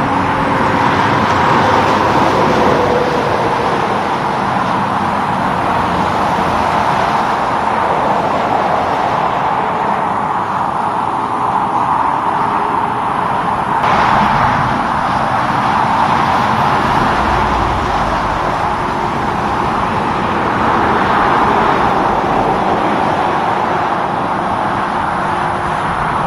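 Highway traffic: a steady wash of tyre and engine noise from passing cars and trucks, swelling and easing as vehicles go by, with one sharp click about 14 seconds in.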